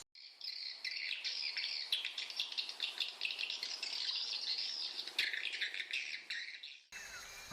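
Dense high twittering of swiftlet calls, a fast stream of chirps that cuts off suddenly near the end.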